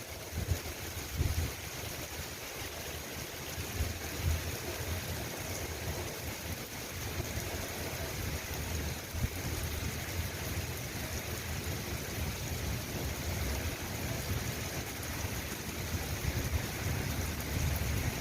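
Steady rain falling, a continuous even hiss, with occasional low rumbles of wind buffeting the microphone.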